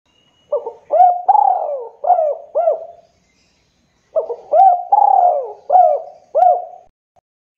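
Spotted dove (tekukur) cooing: two loud phrases of several rolling coo notes each, about a second and a half apart.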